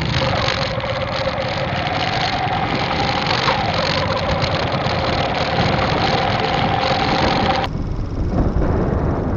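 Motorcycle engine running with a steady hum while riding, under loud wind rush on the microphone. Near the end the wind rush and hum drop away suddenly.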